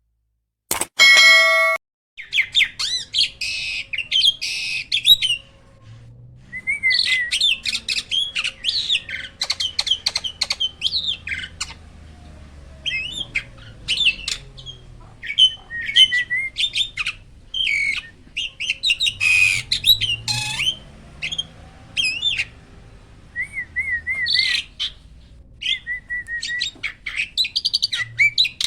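Starling (jalak) song as a masteran recording: a long run of varied whistles, warbled phrases and fast chattering trills with short pauses between them. It is the kind of song played to kept starlings to stir their breeding mood. It follows a short steady tone about a second in.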